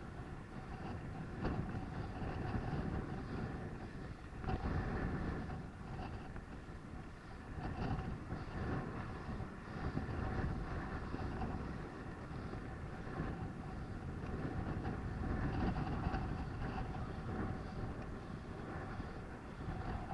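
Rumble and rattle of a bicycle ridden along a road, with the level rising and falling.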